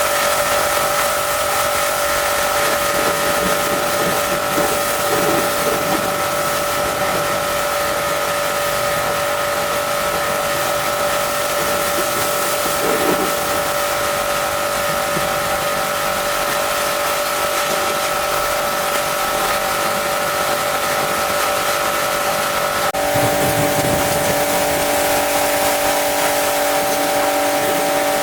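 Steady machine drone with several fixed tones over a constant hiss. About five seconds before the end it changes abruptly to a different set of tones.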